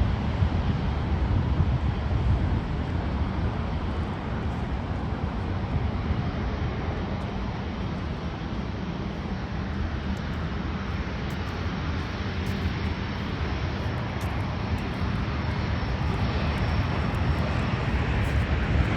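Airliner engine noise at an airport: a steady rumble that eases off through the middle and builds again toward the end.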